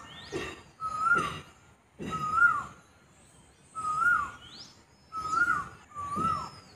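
A bird calling over and over: short whistled calls, each with a quick rise and fall, about six in a row at uneven gaps, with a pause in the middle.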